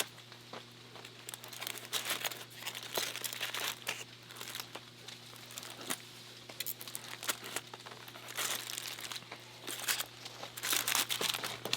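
Aluminium foil packet being cut and torn open, crinkling and crackling in irregular bursts that grow louder near the end, over a steady low hum.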